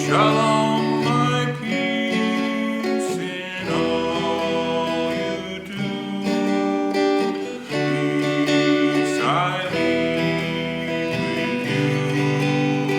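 Acoustic guitar strummed in sustained chords, a new chord struck about every two seconds.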